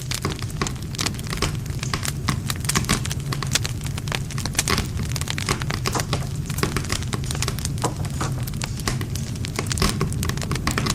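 Wood fire burning, with many irregular crackles and pops from the burning logs over a steady low rumble of the flames.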